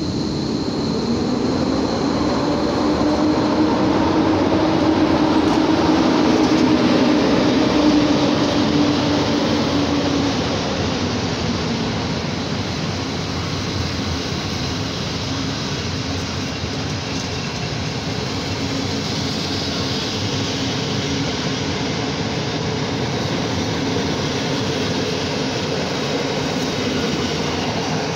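PKP EP07 electric locomotive hauling a passenger train out of the station past the listener, its hum rising over the first few seconds and fading out about ten seconds in, followed by the steady rumble of the carriages' wheels on the rails.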